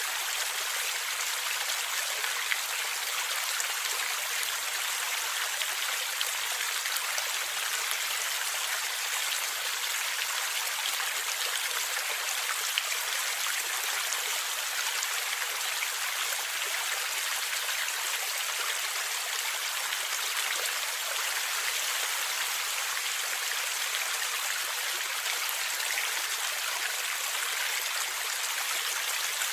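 River water flowing and gurgling steadily: a constant rushing hiss sprinkled with tiny splashes.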